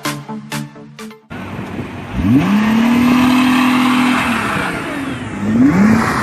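A vehicle engine revving up sharply and holding high revs for about two seconds, then dropping back, with a second, shorter rev near the end, over road and wind noise. Background music plays for the first second or so.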